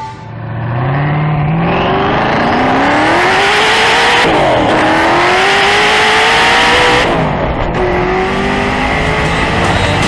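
Hennessey Venom GT's twin-turbocharged V8 accelerating hard, its pitch climbing steeply, dropping sharply about four seconds in, then climbing again. About seven seconds in it falls back to a lower, steadier note.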